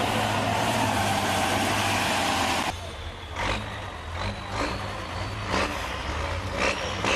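Heavy diesel truck engine running loud under load. About two and a half seconds in it cuts off abruptly to a quieter engine with several short knocks and clunks.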